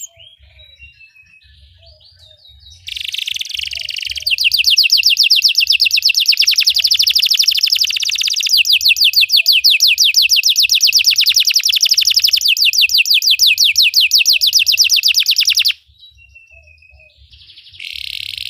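Belgian canary singing: a few soft notes, then a long, rapid rolling trill of repeated notes lasting about thirteen seconds that stops abruptly. A new phrase begins near the end.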